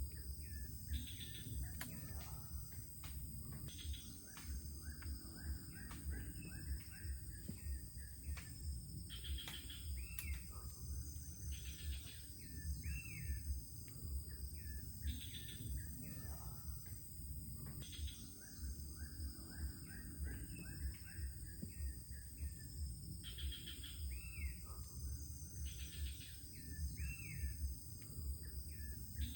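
Forest ambience: birds give short chirping calls every couple of seconds over a steady high-pitched drone of insects, with a low rumble underneath.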